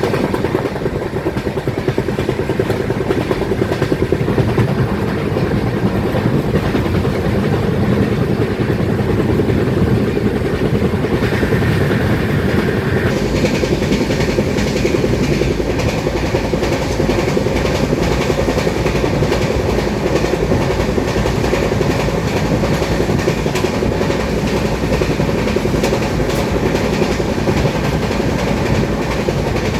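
Passenger train running along the track, its wheels clattering steadily over the rails. A brief high tone sounds over it about eleven seconds in.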